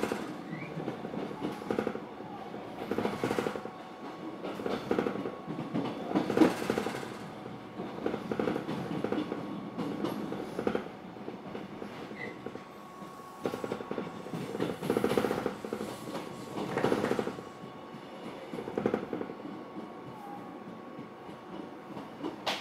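A train running on rails, its wheels clattering in a rhythm that swells and fades every couple of seconds, with a faint steady whine underneath.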